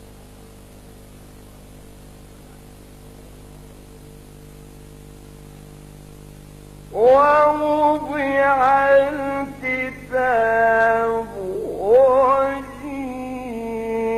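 A few seconds of low steady hum. About seven seconds in, a male Quran reciter's voice enters with a long, ornamented melodic phrase of chanted recitation (tajwid), pausing briefly twice and ending on a held note.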